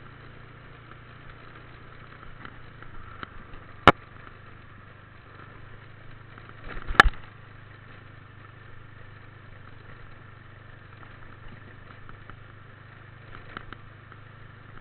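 Motorbike engine running steadily at a low hum, with two sharp clicks or knocks about four and seven seconds in.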